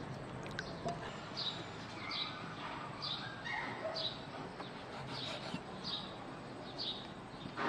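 A bird chirping over and over, short falling chirps about one to two a second.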